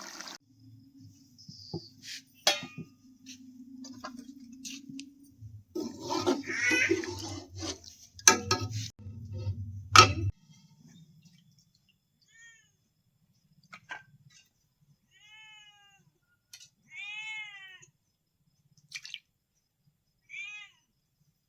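A cat meowing several times in short rising-and-falling calls in the second half, after a stretch of knocks and clatter in the first half.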